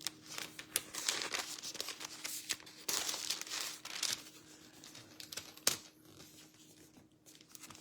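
Thin Bible pages rustling and crinkling as they are turned by hand, in a few irregular bursts with small clicks, loudest about three seconds in.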